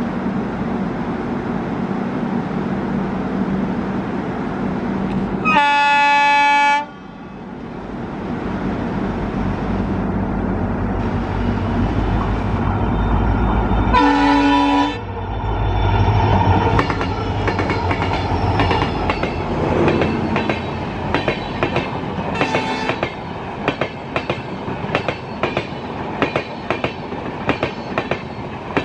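Twin WDP4B diesel locomotives approaching with a steady engine rumble and sounding their horn twice, about six seconds in and again around fourteen seconds. The engines then pass close by, and the express's coaches follow with a steady clickety-clack of wheels over rail joints.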